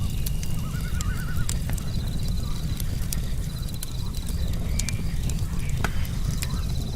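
Campfire of burning logs crackling, with scattered sharp pops over a steady low rumble of the flames. Crickets trill in short high runs a few times.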